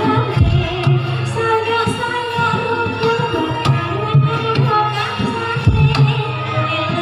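Live Javanese gamelan music accompanying a jaran kepang dance: kendang hand-drum strokes over ringing, sustained metallophone and gong tones.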